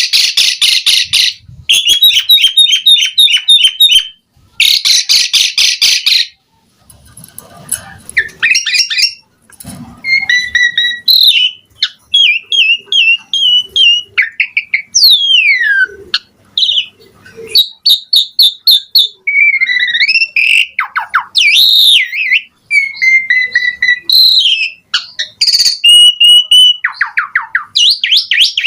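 Asian pied starling (jalak suren) singing loudly: first fast, rasping chatter, then a varied string of whistles, up-and-down glides and short trills. The song is full of mimicked phrases (isian).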